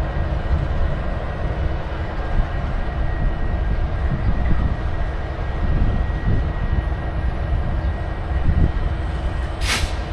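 Steady low engine rumble, with a sharp click near the end.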